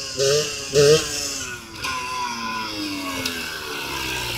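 Yamaha DTR 125's single-cylinder two-stroke engine blipped sharply twice in the first second. Its note then falls steadily for about two seconds as the bike rolls toward the camera, and it settles to a lower steady run.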